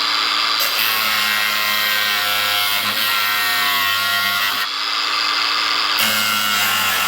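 Electric power drill running steadily at full speed as a continuous whine, stopping right at the end.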